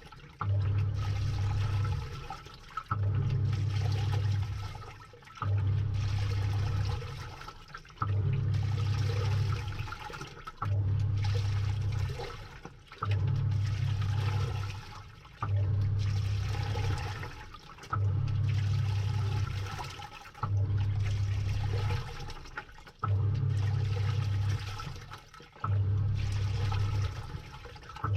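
Samsung 6.5 kg top-load washing machine agitating a load, heard from inside the drum with water sloshing. The motor hums in even bursts about every two and a half seconds, stopping briefly between strokes as it reverses.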